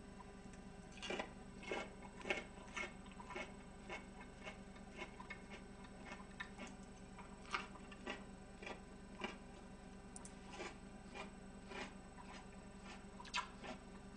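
Close-miked chewing of crisp pickled cabbage: quiet, irregular crunches about one or two a second, over a faint steady hum.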